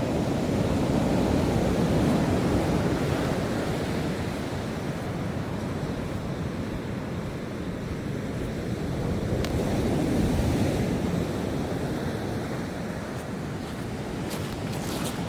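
Ocean surf washing on the shore, a steady rushing wash that swells twice as waves break, with a few light clicks near the end.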